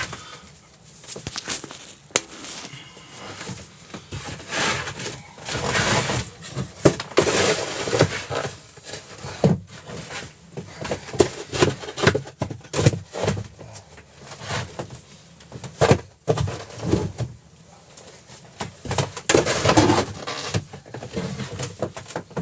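Irregular knocks, clunks and scraping from hands-on work clearing out a frozen boat, with many sharp knocks and longer scraping swishes throughout.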